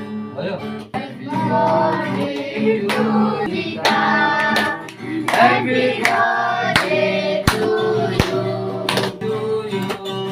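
Several voices singing together to a strummed acoustic guitar, with scattered hand claps.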